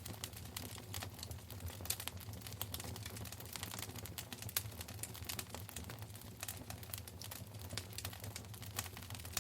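Wood fire burning in a fireplace, crackling with irregular sharp pops and snaps over a steady low hum.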